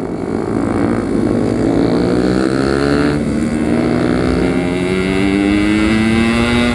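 Yamaha RX-King 135 cc two-stroke single-cylinder engine riding along, its revs climbing slowly and steadily in one gear.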